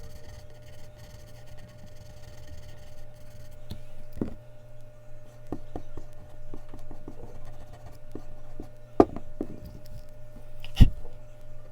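Mechanical pencil strokes on Bristol paper: soft scratching and small ticks as the lead moves, with two sharper knocks about nine and eleven seconds in. A steady low hum runs underneath.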